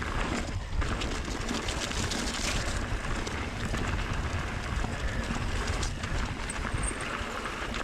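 Mountain bike riding fast down a dirt trail: a steady low rumble of tyres rolling over dirt and rock, with constant rattling clicks from the bike, picked up by an action camera on the bike or rider.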